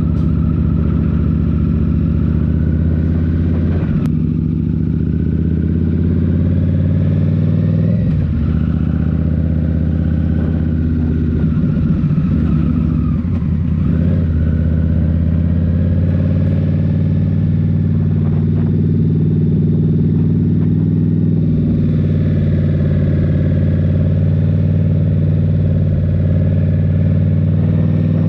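An Indian Scout Rogue's 69 cubic-inch V-twin running loud through a Rinehart slip-on exhaust while riding. Its pitch dips and climbs again with throttle and gear changes around 4 s, 8 s and 13 s in.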